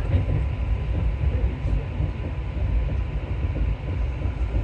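Alstom MP14 rubber-tyred metro train running through a tunnel, heard from on board: a steady low rumble with a faint, constant tone above it.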